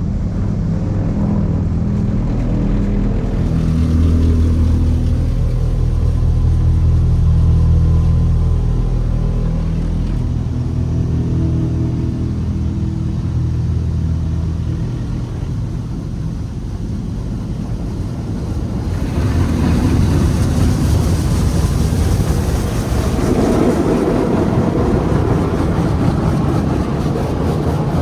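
Tunnel car wash machinery heard from the car being washed: a steady low mechanical hum, then about two-thirds of the way in a loud rushing hiss sets in and continues.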